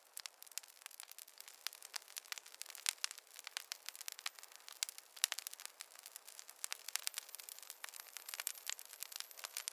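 Wood campfire crackling: dense, irregular snaps and pops, several a second, over a faint hiss.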